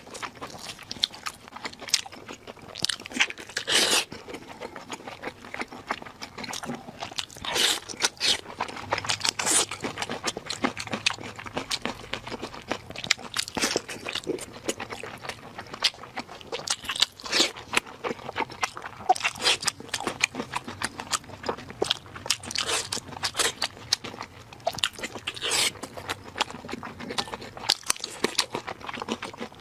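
Close-miked eating: a steady, irregular run of crunching bites and chewing.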